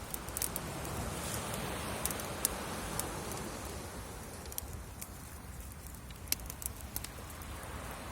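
Wood bonfire crackling: a steady hiss broken by scattered sharp pops.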